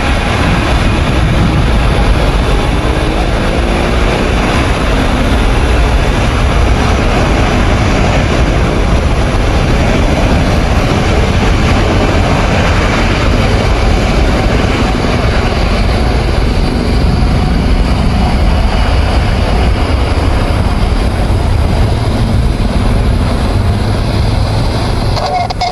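Boeing 787-9 Dreamliner's twin jet engines at takeoff thrust, a loud steady rumble with a hiss over it.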